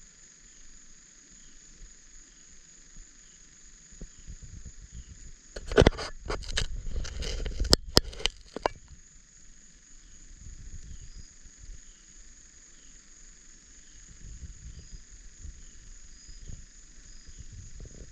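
Crickets and other insects chirping steadily in an evening chorus. About six seconds in comes a three-second cluster of loud knocks and thumps, the loudest sound here, with low rumbling around it.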